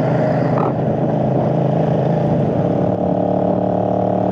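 Kasinski Mirage 250's V-twin engine running as the motorcycle rides along the highway. The engine note settles to a steady, even pitch about three seconds in.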